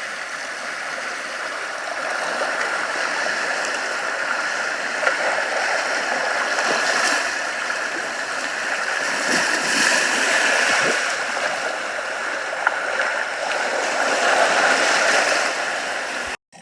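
Steady running water of a stream, with faint splashes and clicks in the flow.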